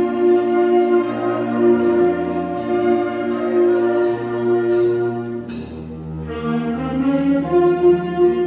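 Student concert band playing held chords on brass and woodwinds, with a few light percussion strokes about halfway through.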